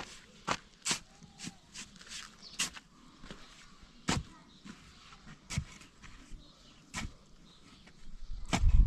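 Irregular sharp knocks and clicks, a second or so apart, then a loud low rumble comes in near the end.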